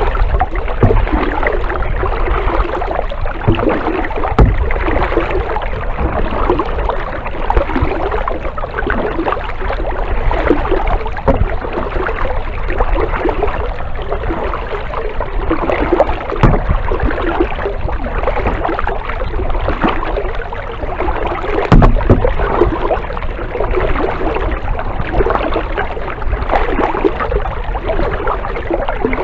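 Kayak paddle strokes dipping and splashing through the water in a steady, continuous wash, with an occasional sharp knock.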